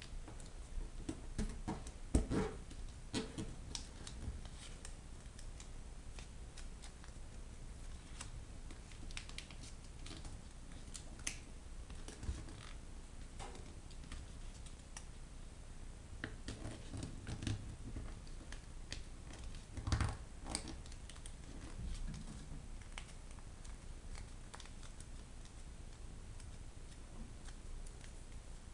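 A square of origami paper being folded and creased by hand: scattered soft crinkles, rustles and taps, with the strongest about 2 seconds in and again about 20 seconds in.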